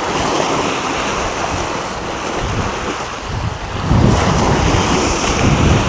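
Sea waves washing and wind buffeting the microphone, with the low rumble of the wind growing louder about four seconds in.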